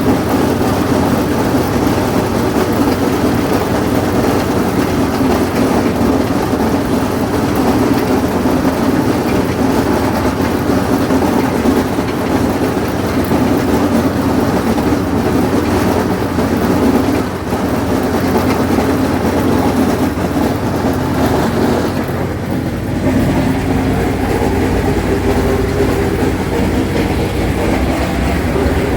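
Allis-Chalmers 7000 tractor's diesel engine running steadily under load while it pulls a 1209 haybine, the mower-conditioner hammering, banging and clanking loudly over the engine. About two-thirds of the way in the sound dips briefly, and a deeper rumble follows.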